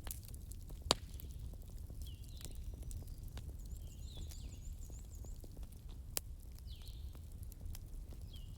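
Wood fire crackling in a fireplace: a steady low rumble with many small snaps and two sharp pops, about a second in and about six seconds in. Faint high whistling chirps come and go through it.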